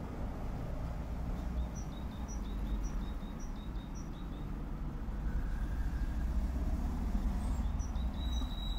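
A small songbird calling in a run of short, high chirps, about two a second, that resumes briefly near the end, over a steady low background rumble.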